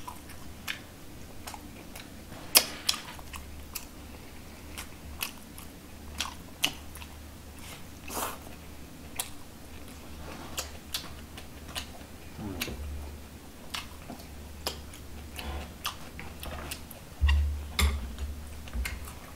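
A person chewing and biting food, with frequent short wet smacks and clicks. A few of them are louder: about two and a half seconds in, about eight seconds in, and near the end.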